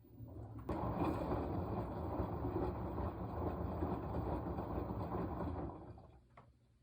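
Washing machine drum turning the load during the wash cycle: the motor starts, a steady hum and churn runs for about five seconds, then it fades and stops.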